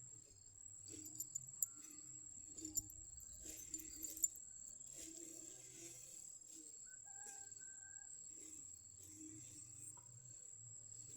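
Insects trilling in one steady high tone, with scattered sharp clicks and rustling during the first few seconds.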